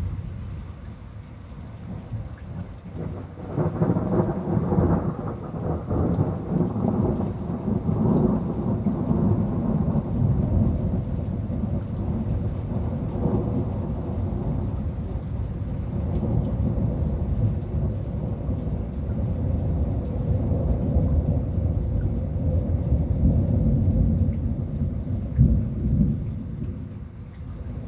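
Long rolling thunder: a deep rumble swells about three and a half seconds in, rolls on unevenly for some twenty seconds and dies away near the end, with rain falling throughout.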